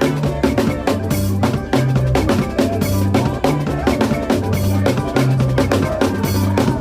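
Drum kit playing a makossa-style groove over a band backing track, with kick, snare and rimshot strokes in a steady fast rhythm and a moving bass guitar line underneath.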